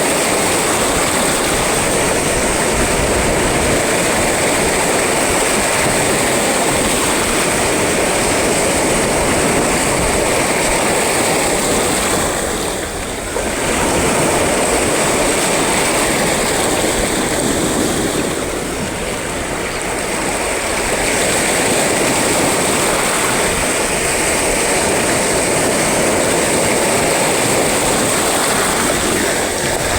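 Sea waves and wind making a loud, steady rushing noise. It eases briefly twice, near the middle and again a few seconds later.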